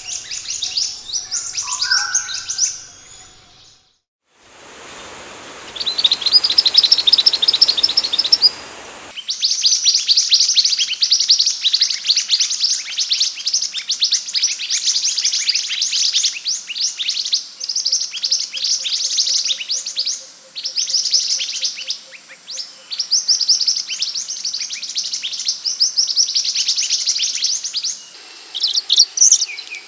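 Scarlet minivet (sepah hutan) song: long runs of rapid, high-pitched chirps with brief breaks. It drops out briefly about four seconds in, then returns over a hissy background for a few seconds before the clean, dense chirping resumes.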